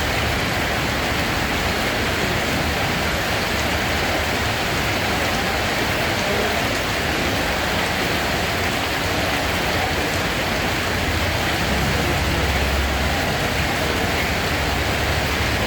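Steady rain falling, an even hiss of water without let-up.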